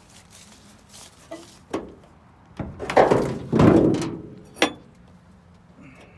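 Steel hood of a square-body Chevy truck being opened: a couple of knocks, a loud scraping creak lasting about a second and a half as the hood goes up, then a sharp click.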